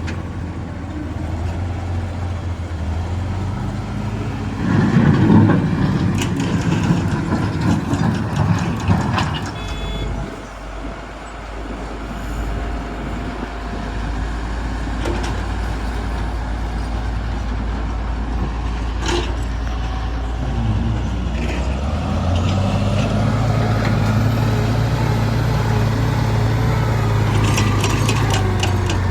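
Heavy diesel machinery running at a rock-loading worksite, a wheel loader and trucks, with a steady low engine drone. About five seconds in, a loud rumbling clatter lasts several seconds. The engine note steps up louder about three-quarters of the way through, with a few sharp knocks near the end.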